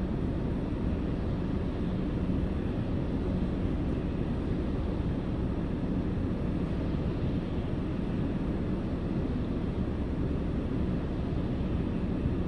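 Steady low rumble from inside a car idling while stopped at a traffic light.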